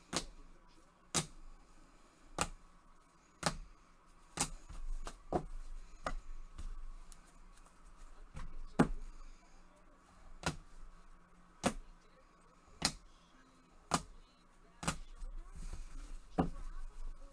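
A run of sharp plastic clicks, roughly one a second: hard-cased trading cards being set down on a table one after another as they are laid out.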